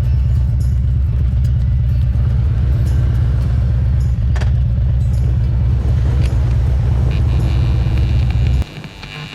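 Motorcycle engine running steadily with a loud low rumble, cutting off suddenly near the end.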